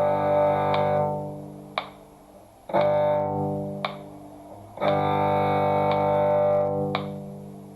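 Cello playing three long held bowed notes, each swelling and fading, the last dying away near the end, over a metronome click about once a second.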